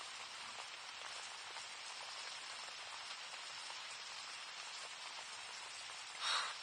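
Steady rain falling, an even hiss of drops. About six seconds in there is a short, louder swish.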